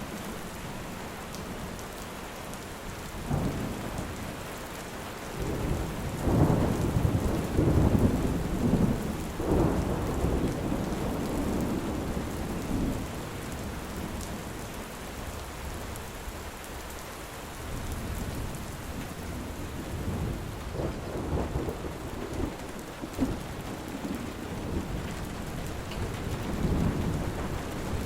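Steady rain falling with rolling thunder rumbling over it, a long low rumble swelling about six seconds in and easing off by about twelve seconds, then lighter rumbles again later.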